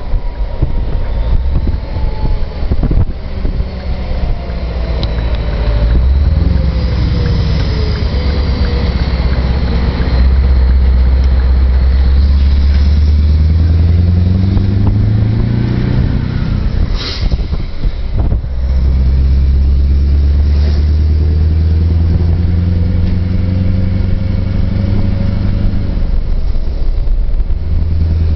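Scania truck's diesel engine pulling under load, its pitch climbing steadily, then breaking off briefly about two-thirds of the way through before running on and climbing again.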